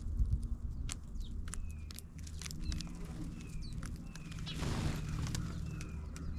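Small birds calling: many short, sharp chips and brief falling whistled notes repeating every second or so, over a steady low rumble. A short rustling hiss comes a little past the middle.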